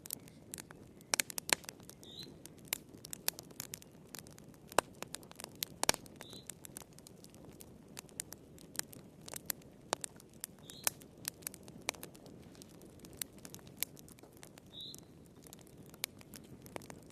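Wood fire crackling in a fireplace: irregular sharp pops and snaps over a steady low hiss of burning logs.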